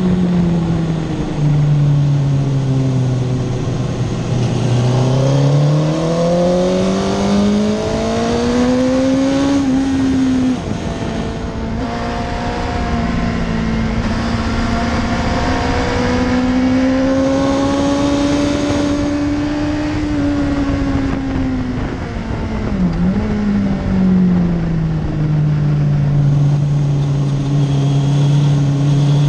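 Suzuki GSX-R1000 K2's inline-four engine at track speed, with heavy wind rush over the bike. The engine note falls in the first few seconds and climbs steadily for several seconds as the bike accelerates. It then holds high with small rises and falls, dips briefly about two-thirds of the way through, and settles to a lower steady note for the last few seconds.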